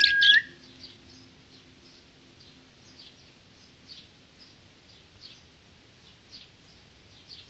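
Lovebirds chirping: a loud, high call in the first half second, then a steady run of faint, short, high chirps a few times a second.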